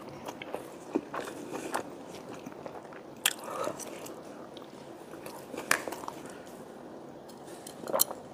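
A person chewing and biting food close to a clip-on microphone, wet mouth sounds with a few sharp clicks about every two seconds.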